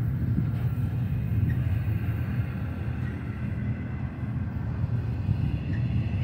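Double-stack intermodal well cars of a BNSF freight train rolling past, a steady low rumble of steel wheels on the rails.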